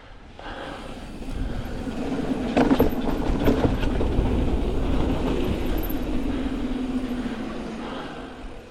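Hardtail mountain bike rolling fast down a dirt trail: tyre rumble over the ground with a steady ratcheting buzz from the freewheeling rear hub, and a few quick knocks and rattles over bumps a couple of seconds in. The noise builds as speed picks up, then eases off near the end.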